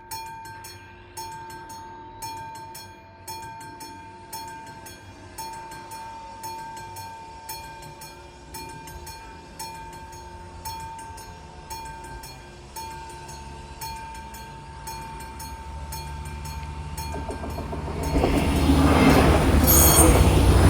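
Classic level-crossing warning bells striking steadily, about once a second. From about 15 s a train grows louder as it approaches, and it passes the crossing loudly near the end, drowning the bells.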